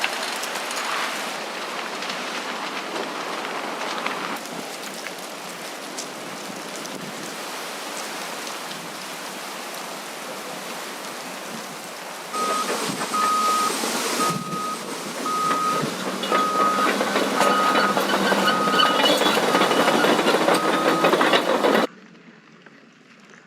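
Mountain bike ride on a dirt trail: steady rush of wind on the camera microphone and tyres rolling over dirt. About halfway it gets louder and a short high beep starts repeating about once a second, then the noise cuts off suddenly near the end.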